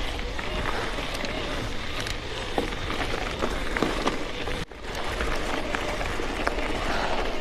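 Aventon Current EXP electric mountain bike rolling over a dirt trail: tyres crunching with small rattles and clicks over wind noise. The sound cuts out briefly about four and a half seconds in.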